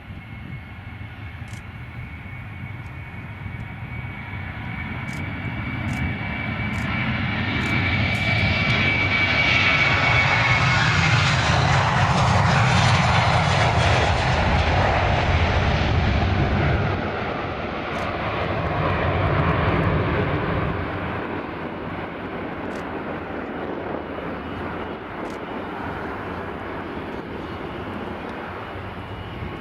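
Jet engines of a Ryanair Boeing 737 airliner passing on take-off. The engine noise swells to a peak around the middle, with a high whine sliding down in pitch as it goes by, then fades to a steady distant rumble.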